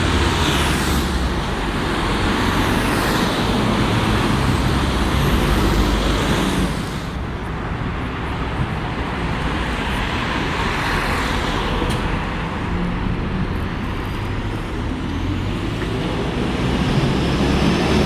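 Road traffic with heavy vehicles such as buses running and passing, a steady engine hum under tyre noise that eases off a little about seven seconds in.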